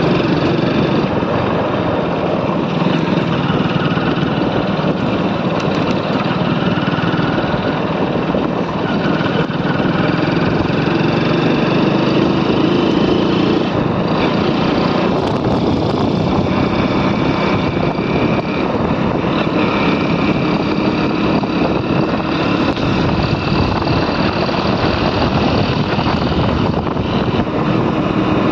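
Motorcycle engine running steadily on the move, with a continuous rushing noise over it and small shifts in engine pitch.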